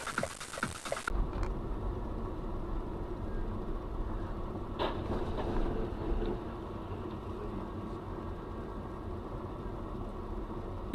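Steady low rumble of a car's engine and road noise as picked up by a dashcam inside the moving vehicle, with one faint click about five seconds in.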